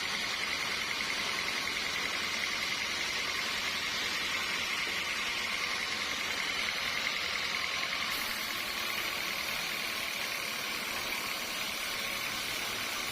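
Sawmill machinery running steadily, a constant mechanical hum with a high whine and no cutting strokes or impacts.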